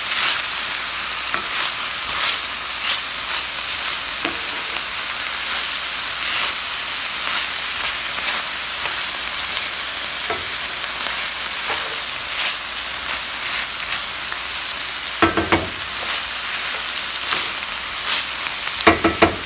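Chopped onion, garlic, peppers and sausage sizzling steadily in oil in an enameled cast-iron paella pan as they cook down. A few sharp knocks come in two short clusters near the end.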